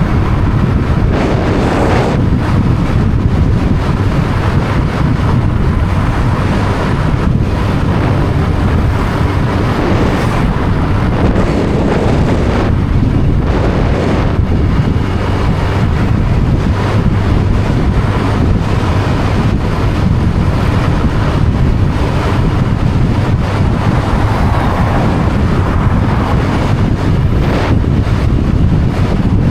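Heavy wind buffeting the microphone while travelling, over a steady low drone.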